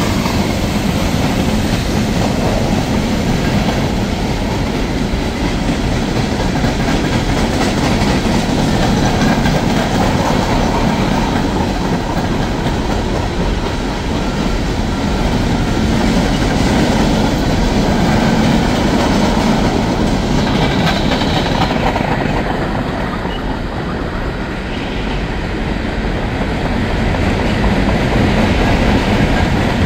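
Empty open-top coal hopper cars rolling past, their steel wheels running over the rails with a loud, steady rumble and rattle.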